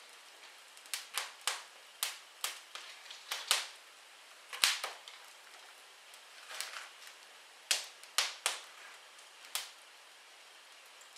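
Wood fire crackling in a fireplace: about fifteen sharp pops and snaps at irregular intervals, the loudest a few seconds in.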